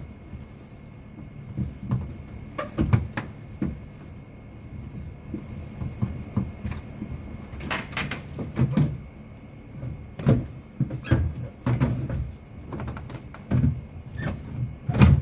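Irregular knocks, bumps and clicks of vegetables and containers being handled and set into a refrigerator, with its shelves or drawers knocking, spread unevenly through the stretch.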